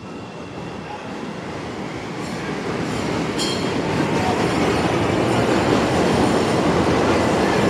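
A train approaching on rails, its rumble growing steadily louder for about four seconds and then holding loud, with a brief high wheel squeal about three and a half seconds in.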